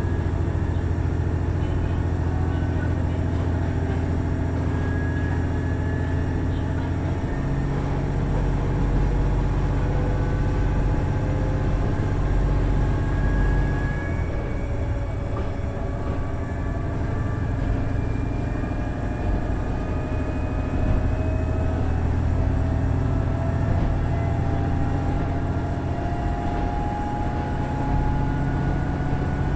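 Running sound of a KiHa 110 series diesel railcar: its Cummins DMF14HZA engine and drive line running steadily under way, with a whine that slowly rises in pitch and an abrupt change in the low engine note about seven seconds in.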